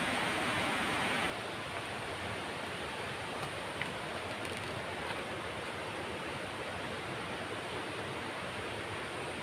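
Steady rush of flowing water from a stream or waterfall. It is louder and hissier for about the first second, then drops abruptly to a softer, even rush.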